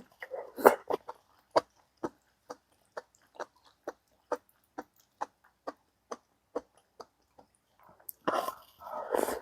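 A person chewing food close to the microphone: short wet mouth clicks about two a second, with denser bursts of chewing at the start and near the end.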